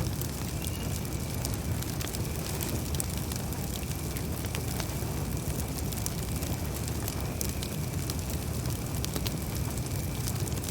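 Campfire burning: irregular sharp crackles and pops from the burning wood over a steady low rush of flame. A faint, steady high-pitched tone sits behind it.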